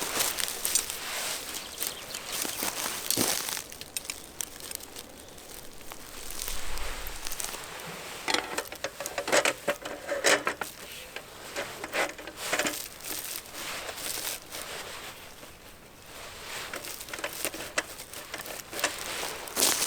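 Irregular rustling and crinkling with scattered light clicks and knocks, as of things being handled at close range, busiest about halfway through.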